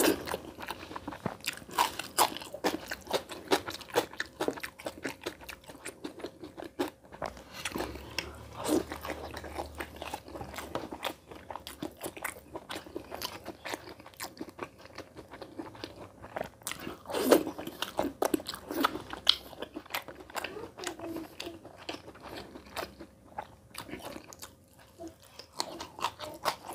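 Close-up eating: chewing and lip smacking on mouthfuls of rice and curry eaten by hand, a string of short wet clicks with a few louder smacks.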